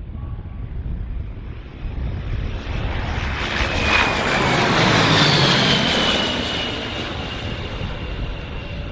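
Low-flying airplane passing close by. Its engine noise swells to a peak about halfway through and then fades, with a whine that drops in pitch as it goes past.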